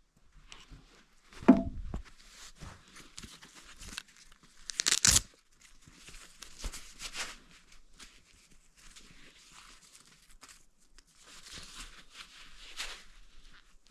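Old material being torn off and crumpled during demolition work, with scattered rustling and scraping. A heavy thump comes about one and a half seconds in, and a loud burst of tearing about five seconds in.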